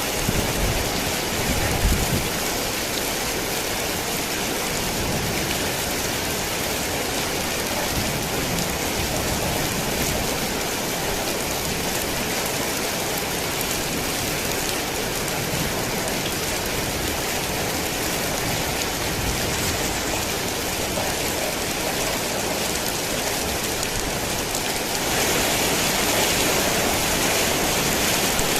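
Heavy rain falling steadily, a dense even hiss of drops, with a brief low rumble near the start. The rain grows louder and brighter near the end.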